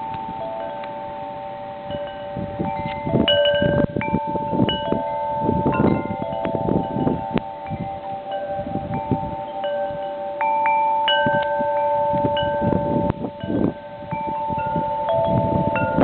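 Metal wind chimes ringing irregularly in gusty blizzard wind, several notes struck and left to ring over one another, with wind buffeting the microphone.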